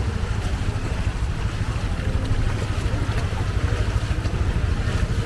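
Fast-flowing floodwater rushing down a flooded street, a steady churning wash over a heavy low rumble.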